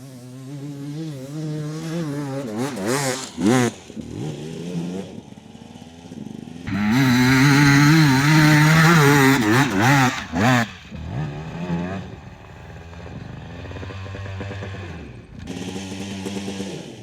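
250 cc dirt bike engine revving hard in surges up a steep hill climb, the throttle opened and shut again and again, with its longest, loudest full-throttle pull about halfway through.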